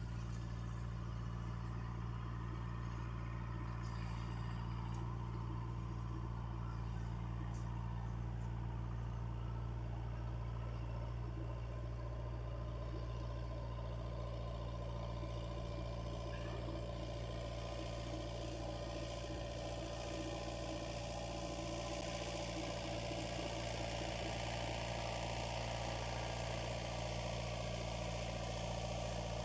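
A steady, unchanging low engine hum, like a motor idling.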